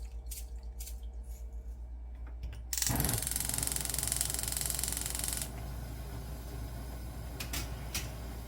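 A kitchen tap runs for about three seconds, water hissing into the sink, then is shut off, over a steady low hum; a few light clicks near the end.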